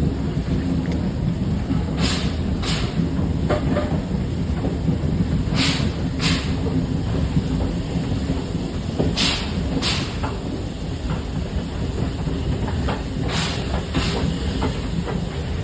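Railway carriage running at steady speed with a continuous low rumble, its wheels clicking in pairs over the rail joints about every three and a half seconds.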